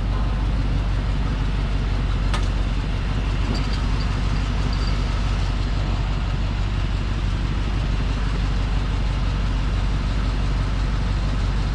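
Motorcycle engine running steadily with a constant low hum.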